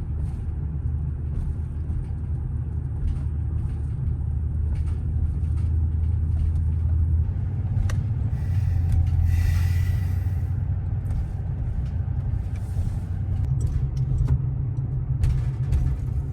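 Pickup truck driving, a steady low engine and road rumble inside the cab, shifting slightly in pitch twice along the way.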